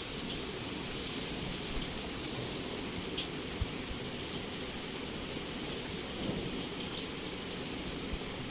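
Heavy rain falling steadily against a window, a constant hiss with scattered sharp drop taps; one tap about seven seconds in is louder than the rest.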